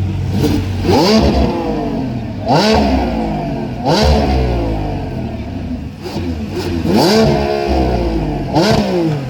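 A high-performance car engine is revved hard five times. Each blip rises quickly in pitch and falls back to idle over about a second.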